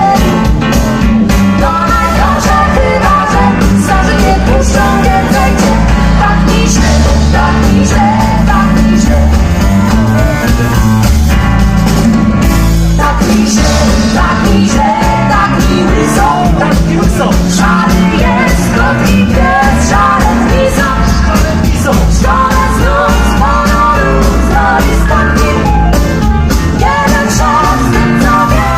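Rock-and-roll song with a singing voice over a steady bass and drum beat.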